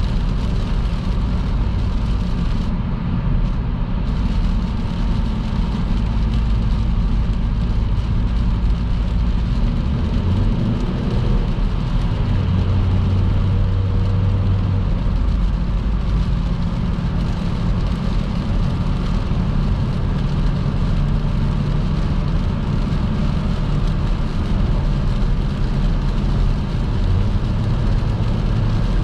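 Car driving steadily along a motorway in the rain: a constant low engine and road drone with the hiss of tyres on the wet surface.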